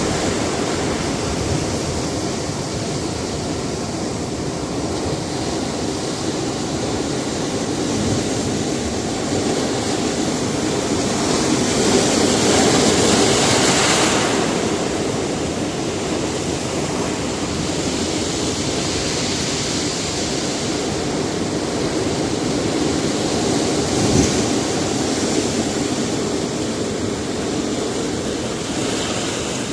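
Sea surf washing against a rocky shore, a steady rush of water, with one larger wave swelling and breaking about halfway through and a smaller one near the end.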